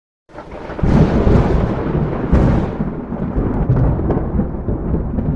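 Thunder sound effect: a loud rumble that starts suddenly, with cracks in its first few seconds, then slowly fades.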